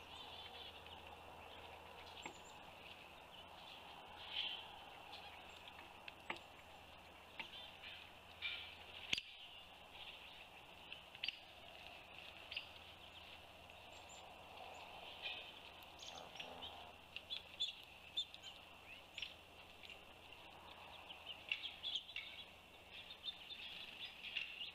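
Faint, scattered chirps of small birds over a steady background hiss.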